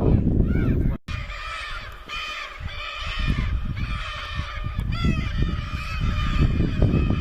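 Birds giving a rapid, continuous series of short harsh calls over a low rumble of wind noise. The sound drops out briefly about a second in as the footage cuts.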